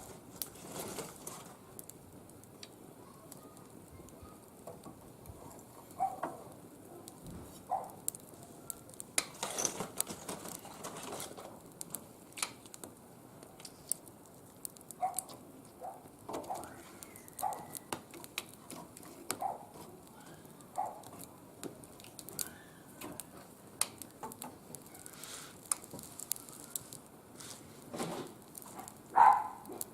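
Wood fire crackling in a barbecue grill, with many small sharp pops, while short high calls come now and then and a dog barks near the end.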